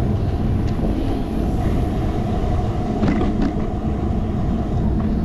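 Steady low rumble of wind and road noise on a handlebar-mounted action camera as the bicycle rolls along, with a few light clicks and rattles, a couple of them together about three seconds in.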